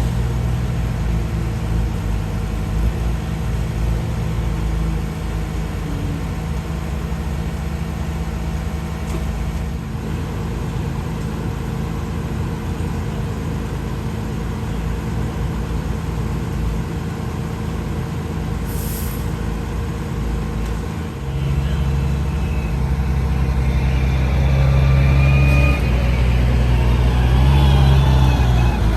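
Heavy diesel engine running steadily at a low drone, picking up and running louder about two-thirds of the way through.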